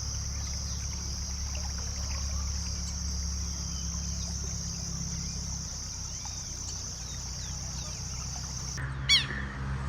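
Forest ambience: a steady high-pitched insect drone over a low rumble, with faint bird chirps. Near the end the soundscape changes abruptly and one loud bird call sounds.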